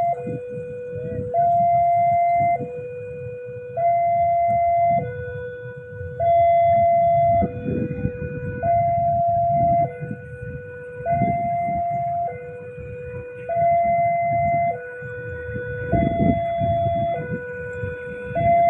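Electronic level-crossing warning alarm sounding a steady two-tone high-low alternation, each tone held for just over a second. A low rumble runs beneath it.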